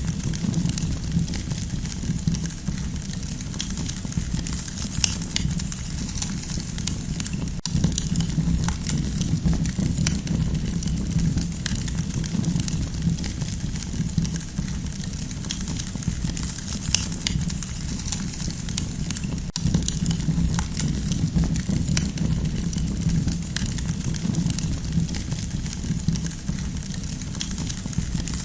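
Campfire burning steadily with a low rumble and frequent sharp crackles and pops of burning wood.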